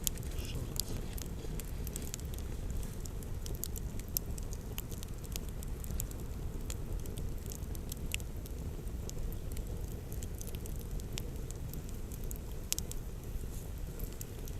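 Wood campfire crackling, with scattered sharp pops at irregular intervals over a steady low rumble.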